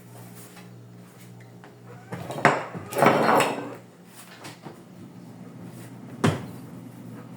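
Containers and food being set back into a refrigerator: a knock and a short clatter a couple of seconds in, then one sharp knock near the end, over a steady low hum.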